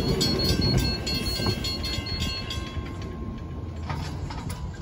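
Transperth electric suburban train passing close by, with loud running noise and a fast regular ticking, about four a second, that stops about two and a half seconds in. The sound then falls quieter.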